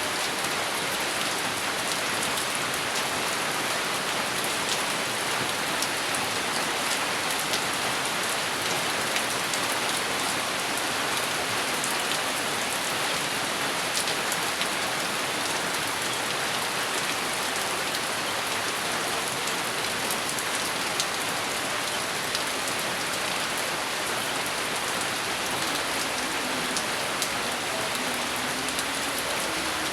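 Steady heavy rain falling on a hard surface, a dense even hiss with frequent sharp clicks of individual drops; no thunder is heard.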